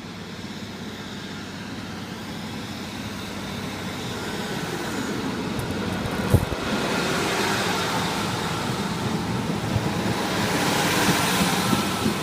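A train's rumble and rail noise steadily growing louder as it draws nearer, with one sharp click about six seconds in.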